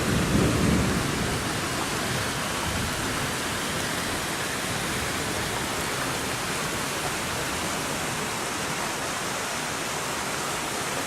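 Heavy rain pouring down steadily, with a low rumble that fades during the first second.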